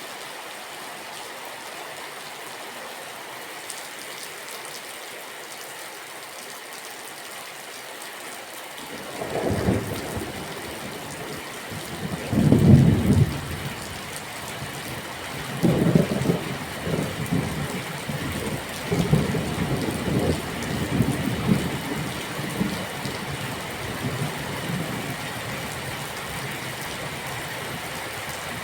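Steady rain falling, with rolling thunder that starts about nine seconds in, peaks a few seconds later, rumbles on in several waves and slowly fades.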